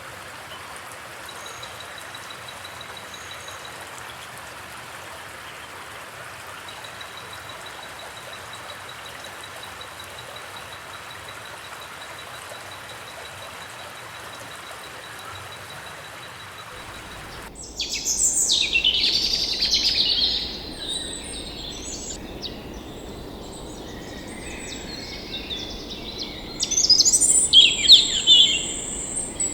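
A steady rush of flowing water, then an abrupt switch a little past halfway to birds calling: loud chirping in two bursts, with quieter calls between them.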